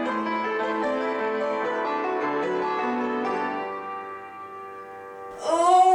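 Background piano music with sustained notes that fades out after about four seconds. Near the end a loud, drawn-out human voice cuts in.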